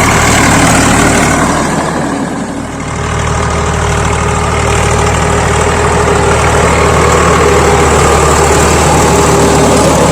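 Tractor diesel engine running steadily, dropping in level briefly about two seconds in.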